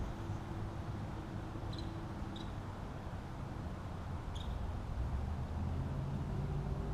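Steady background noise with a low hum and a held tone that fades out partway through, and a few short high chirps, three of them.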